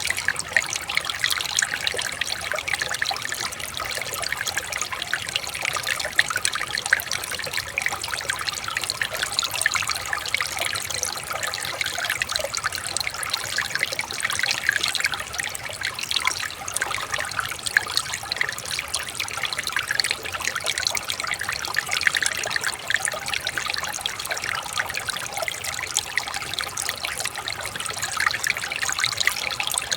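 Shallow running water trickling and babbling over stones, a steady stream of small splashes with no single loud event.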